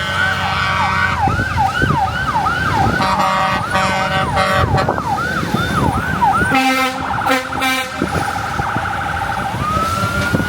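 Emergency vehicle siren on a fast yelp, sweeping up and down two to three times a second, with a loud horn blast from an escort vehicle or lorry around the middle; near the end the siren switches to a slow rising wail.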